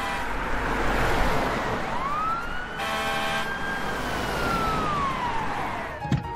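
Fire engine siren wailing over the broad, steady rumble of the truck. One tone falls away at the start. A new wail rises about two seconds in, holds, and slides down again near the end.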